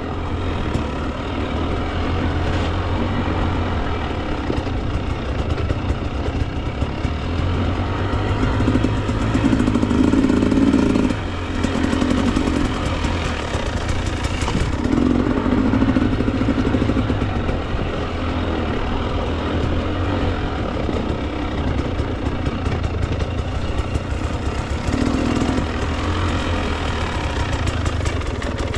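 Two-stroke Husqvarna TE 300 enduro dirt bike engine running under way on a trail, the throttle opening up and backing off again several times, with a brief drop in engine noise about eleven seconds in.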